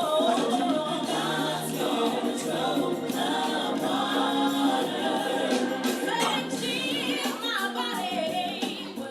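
Church choir singing a gospel song, voices sliding between notes over steady held notes beneath.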